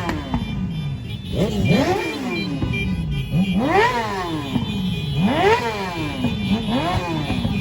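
Several motorcycle engines revved again and again through loud exhausts, each rev climbing in pitch and falling away, overlapping one another about every one and a half seconds.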